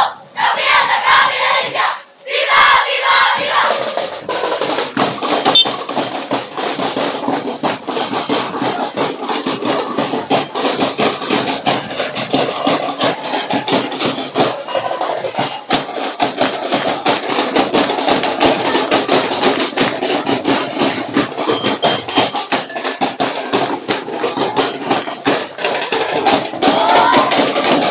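Street-dance percussion band playing a dense, rapid drum beat, with crowd voices underneath; near the end the crowd starts shouting.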